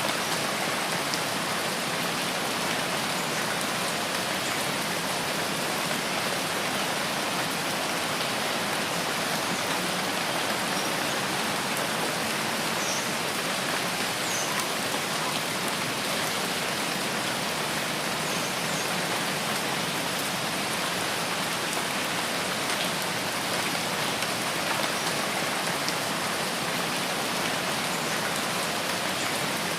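Steady rain falling in a forest: an even, unbroken hiss of rain.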